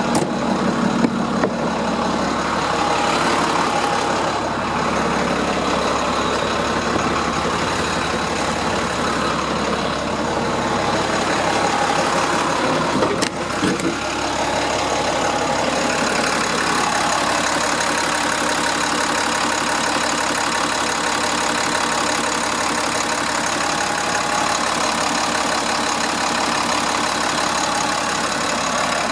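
7.6-litre DT466 inline-six diesel of a 2003 International 4300 truck idling steadily, with a single sharp click about halfway through.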